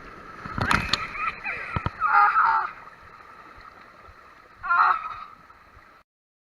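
Water sloshing and splashing, muffled through a GoPro's waterproof case, with a loud splash about a second in and bursts of muffled voices. The sound cuts off abruptly near the end.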